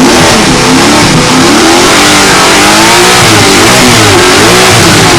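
Alfa Romeo 8C's eight-cylinder engine revved hard and loud, its pitch rising and falling over and over as the throttle is worked.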